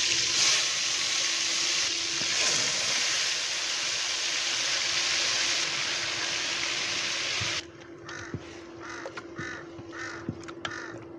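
Marinated chicken pieces sizzling as they go into hot oil in a steel pot, a loud steady frying hiss. About seven and a half seconds in it drops to a much quieter level, with a run of short repeated bird calls over faint stirring and a low steady hum.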